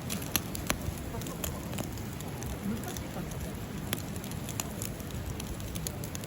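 Wood campfire crackling, with sharp irregular pops and snaps over a low, steady rumble.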